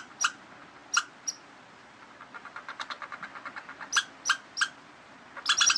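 Squirrel calling with short, sharp, high chirps at irregular intervals. About two seconds in comes a fast run of fainter clicking chatter, and near the end a quick cluster of chirps.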